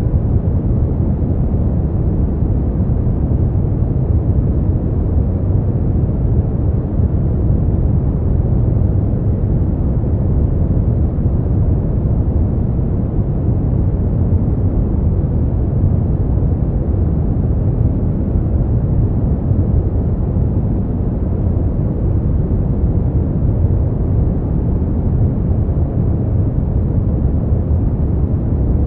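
Brown noise: a steady, unchanging rumbling hiss, strongest in the low end and falling away in the highs.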